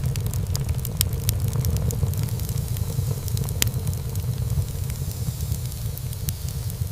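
Wood fire in a fireplace crackling, with frequent small sharp pops of burning wood scattered throughout and a couple of louder pops, over a steady low rumble.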